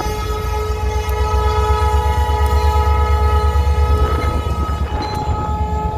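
Freight locomotive air horn sounding one long held chord that stops near the end, over the heavy low rumble of the passing EMD SD40-2 diesel locomotives.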